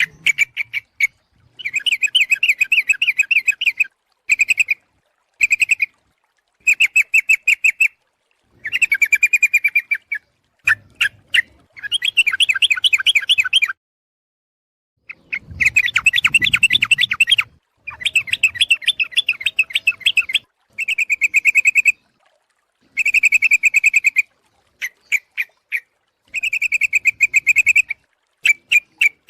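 Yellow-vented bulbul (trucuk) calling: loud bouts of fast chattering notes, each lasting from half a second to two seconds, repeated with short pauses between them. It is a lure call used to draw in wild bulbuls.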